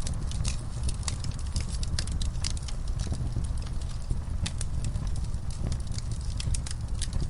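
Wood fire burning in a fireplace: irregular crackles and sharp snaps over a steady low rumble of the flames.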